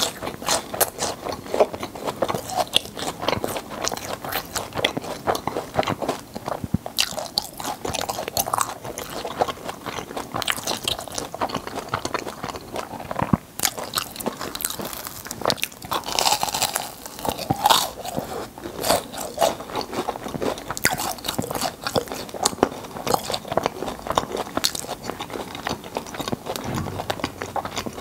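Close-miked chewing of crisp, sugar-coated fried churros: a dense, continuous run of crunchy bites and mouth sounds.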